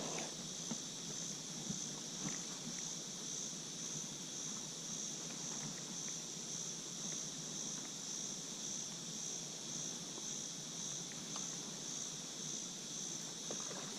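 A steady, high-pitched chorus of insects buzzing in two bands, the higher one pulsing slowly and evenly. A few faint small clicks come through underneath.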